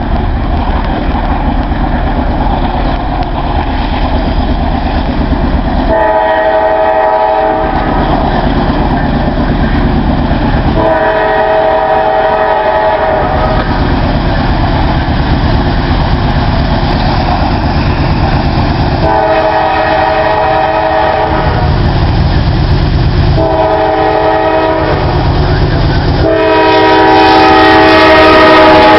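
Norfolk Southern freight train running at high speed, its locomotive horn sounding five blasts of several tones at once over the steady rumble of the engines and wheels; the last blast is held longest, as the train gets louder near the end.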